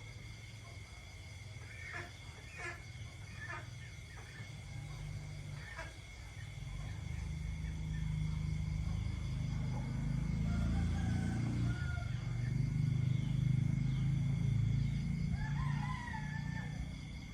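Night chorus of insects trilling steadily at a high pitch, with a few short calls early on. A low rumble swells in the middle and is the loudest sound, and a rooster crows in the distance near the end.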